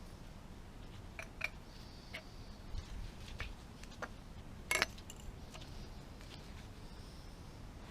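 Scattered light clicks and clinks, like small metal parts or hand tools being handled, with one sharper click just under five seconds in, over a low steady background.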